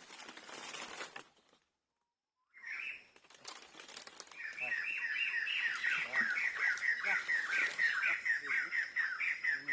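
A bird chirping in a fast run of short, falling chirps, about four a second, from midway on. Before that comes a brief noisy rustle, then about a second of dead silence where the audio cuts out.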